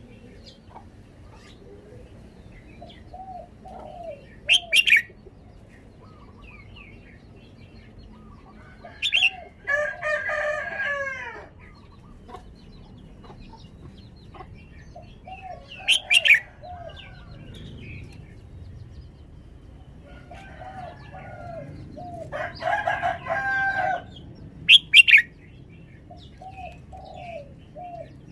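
Red-whiskered bulbul singing: two short warbled song phrases of several rising-and-falling notes, with sharp, loud single calls scattered between them and softer chirps in the gaps.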